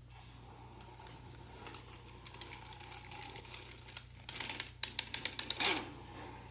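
Carriage of a 3D-printed plastic flatbed knitting machine being pushed across the needle bed: a steady sliding rasp, then a rapid run of sharp clicks about four seconds in as it passes over the needles.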